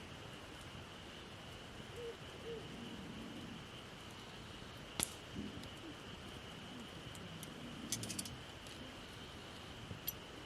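Wood campfire of gathered branches crackling, with scattered sharp pops, the loudest about halfway and a quick cluster near the end.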